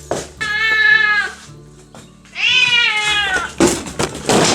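A cat meowing: two long, drawn-out meows, each falling in pitch at the end, followed near the end by a short breathy burst of noise.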